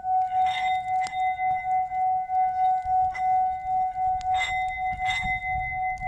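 Singing bowl ringing with one steady, sustained tone that pulses gently in loudness. A few brief crackles, likely from the bonfire, sound over it.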